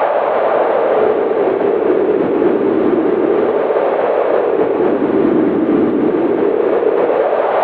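Howling winter wind: a steady rush whose pitch sinks lower over the first couple of seconds and climbs again near the end.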